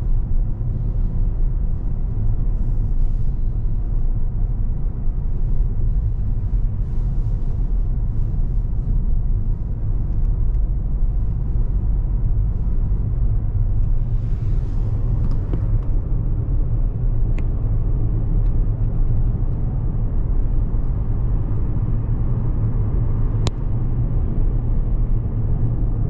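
Car driving along a road, heard from inside the cabin: a steady low rumble of engine and tyre noise, with a couple of faint clicks in the second half.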